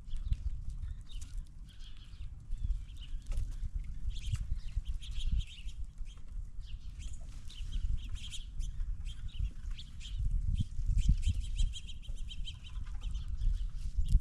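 Blue jays calling at a feeding table: a string of short, harsh calls, which run together into a rapid series near the end. A low rumble and scattered knocks sit underneath.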